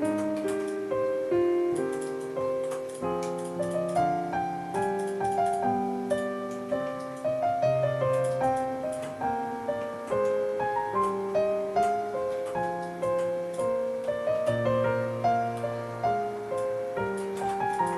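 Background piano music: a steady, even run of struck keyboard notes with a moving melody over a bass line.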